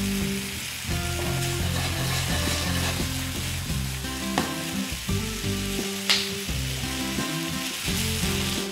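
Chicken pieces and sliced chillies sizzling in hot oil in a nonstick frying pan as they are stir-fried and tossed, with a brief sharper hiss about six seconds in. Low background music plays underneath.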